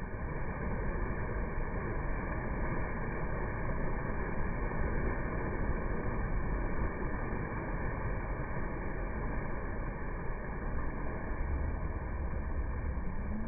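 Steady rushing of water falling and flowing at a small waterfall, an even noise with no breaks.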